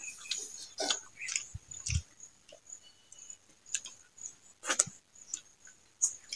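Close-miked eating sounds of a man eating rice with fried leafy greens by hand: fingers squishing rice on a glass plate, then chewing and mouth smacks as irregular soft clicks, with a couple of low thumps about two seconds in. A faint steady high tone runs underneath.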